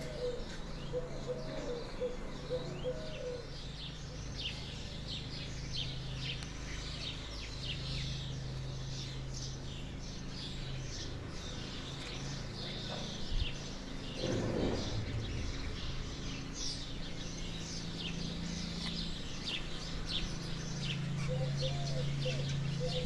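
Small birds chirping: many short, high chirps, scattered and overlapping, over a steady low hum.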